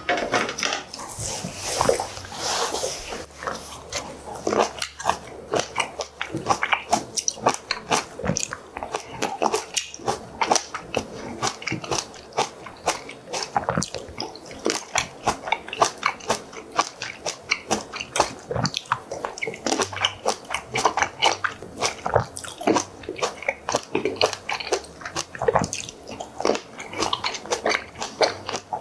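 Close-miked crisp crunching and chewing as small firm round fruits are bitten whole, one after another, with dense crunches throughout. A brief clatter near the start as plates are set down on the table.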